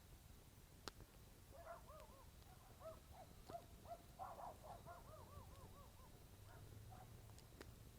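Faint calls of a night bird: a run of quick, rising-and-falling whistled notes, several a second, from about two seconds in until near the end. A campfire crackles with a few sharp pops, one about a second in and two near the end.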